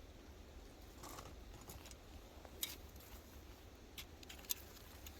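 Faint metallic clinks and a few sharp clicks of a steel beaver trap and its chain being handled and set, over a low rumble.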